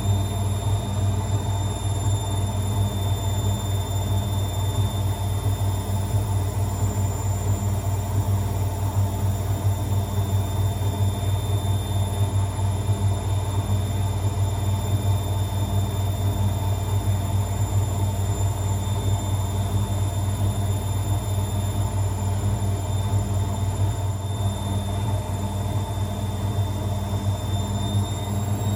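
AEG Lavamat Exclusiv 6469AFL washing machine running steadily: a deep hum from the spinning drum with a thin, high, constant motor whine over it, unchanging throughout.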